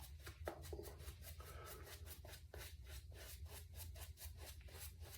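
Synthetic shaving brush swirling soap into a lather, a faint wet swishing at about five or six strokes a second.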